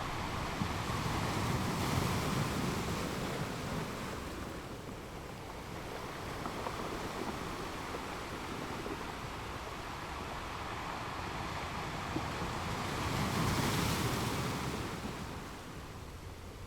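Sea waves breaking on rocks: a steady wash of surf that swells twice, once early and once more strongly near the end, with a lull between.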